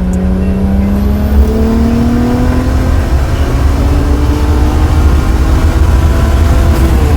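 Single-turbo BMW 535xi's turbocharged inline-six accelerating hard, heard from inside the cabin, its engine note rising steadily through the pull and dropping near the end.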